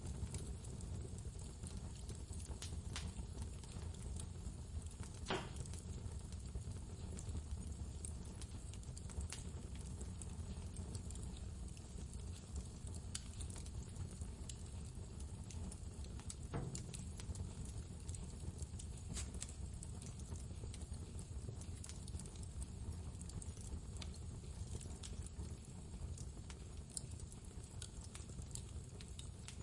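Wood fire crackling in a fireplace, with scattered small pops and a few louder snaps, over the steady low noise of blizzard wind.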